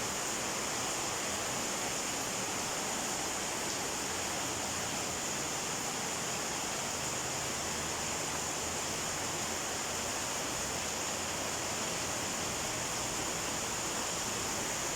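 Torrential rain pouring down steadily, an even hiss with no let-up.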